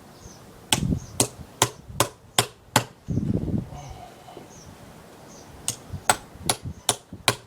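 Hammer striking a chisel cutting into a wooden log, in two runs of about six sharp strikes each, roughly two to three strikes a second, with a pause between.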